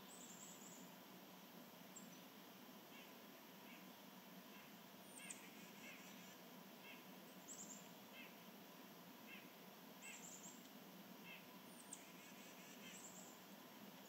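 Faint bird calls: short, thin, high notes sliding downward, a few times every couple of seconds, each followed by a few quick lower notes, over a soft steady hiss.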